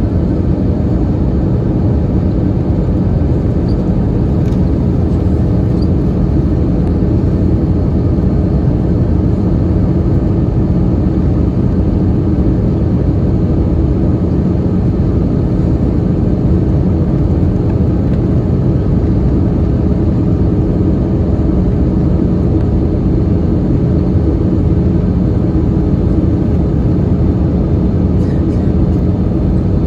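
Steady cabin roar inside an Airbus A321-211 airliner in flight, the CFM56 engines and the rush of air along the fuselage blending into one even noise with a faint steady hum.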